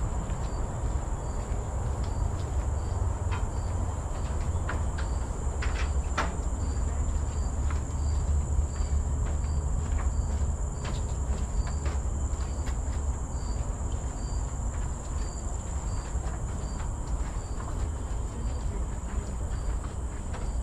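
Insects droning steadily on one high pitch, with a short chirp repeating evenly about one and a half times a second. Scattered footsteps on the trail and a steady low rumble sit underneath.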